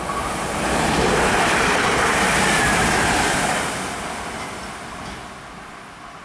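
ÖBB class 4744 Cityjet electric multiple unit passing at speed. Its rushing wheel-and-rail noise swells within the first second, holds for a couple of seconds, then fades from about four seconds in as the train draws away.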